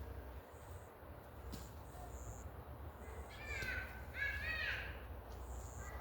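An animal calls twice in quick succession, each call a short cry that rises and falls in pitch. A low steady rumble runs underneath.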